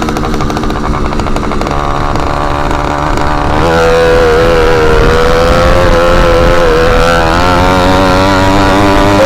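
Motorized bicycle's small engine running with the exhaust tip removed. It speeds up a little over three seconds in, then holds a steady, higher-pitched, louder drone.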